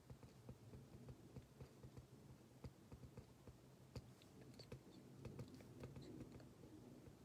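Faint, irregular small clicks and taps of quiet desk work, several a second, in a near-silent room.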